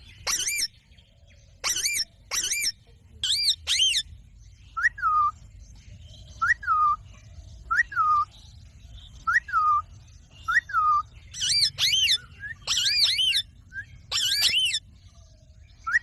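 Ringneck parrot calling: loud, shrill screeches in short clusters near the start and again near the end, with softer short falling whistles repeated about every second and a half in between.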